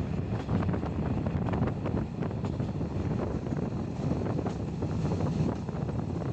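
Passenger train in motion heard at an open window: a steady rumble of wheels on the track, with frequent small clicks and rattles, and wind buffeting the microphone.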